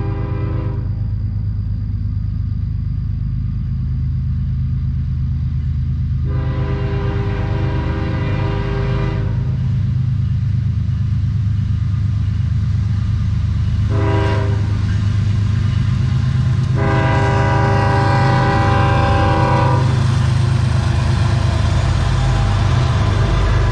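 CSX freight locomotive's air horn sounding for a grade crossing: a brief blast at the start, then long, short, long, with several tones sounding together. Under it the diesel locomotives rumble steadily, growing louder as the train approaches.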